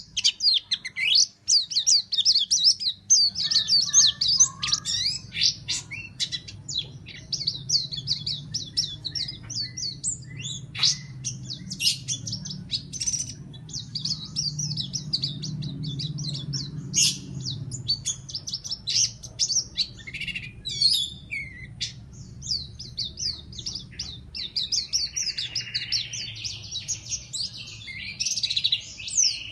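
White-eye (pleci) singing a fast, almost unbroken string of high chirps and trills, the rapid 'nembak' (shooting) style of song. A low steady hum runs underneath, and a lower warbling strand joins the song near the end.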